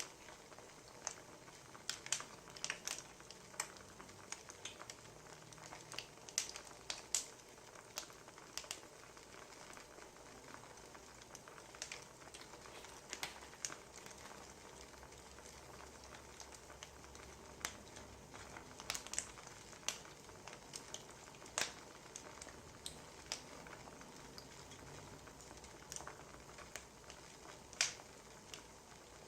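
Faint wood fire crackling: irregular sharp pops and snaps over a soft steady hiss.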